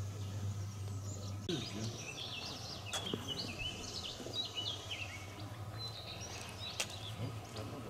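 Birds singing outdoors: a run of quick chirps and trills starting about a second and a half in, over a steady low hum.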